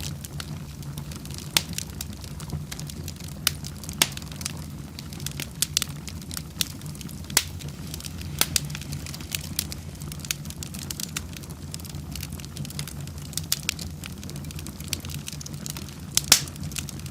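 Wood fire burning in a fireplace: irregular sharp crackles and pops, several a second with some louder snaps, over a steady low rumble of the flames.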